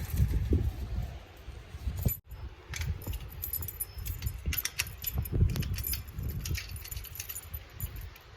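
Strong winter-storm wind buffeting the phone's microphone in an irregular low rumble, with scattered crackling clicks over it.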